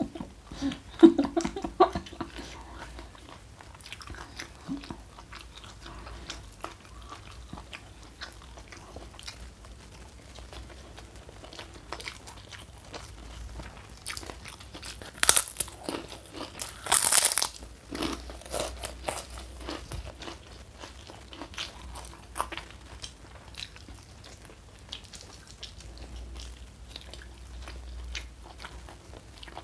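Close-up chewing and crunching of food, with two louder crunchy bites about halfway through.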